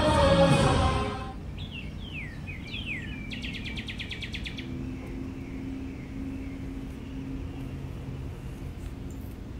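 Show music and voices break off about a second in. Then come a few quick bird chirps that sweep downward, followed by a rapid even bird trill of about ten notes a second lasting about a second, over a low steady hum.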